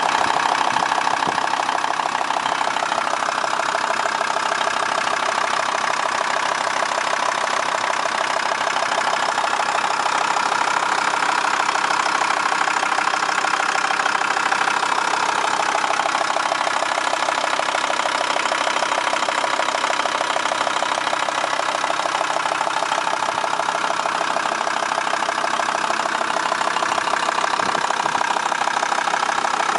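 Volkswagen LT 35 van engine idling steadily.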